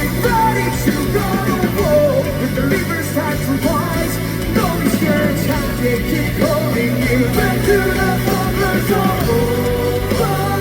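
Live rock band playing loudly: electric guitars, bass and drums, with a voice singing over the music.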